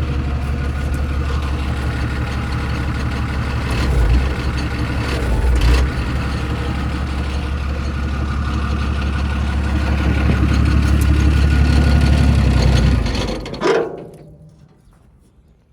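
Isuzu 6BD1 six-cylinder diesel of a Hitachi UH06-5 excavator running steadily, with two heavy low thumps about four and six seconds in. About thirteen seconds in the engine is shut off and runs down to near silence.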